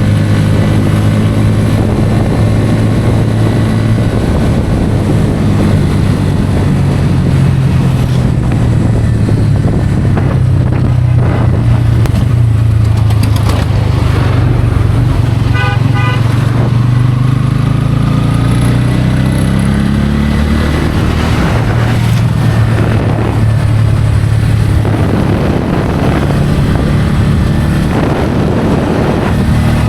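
Bajaj Pulsar N160's single-cylinder engine running at highway speed with wind and road noise. Its note climbs, then drops back about two-thirds of the way through. Around halfway, a horn gives a quick string of short beeps.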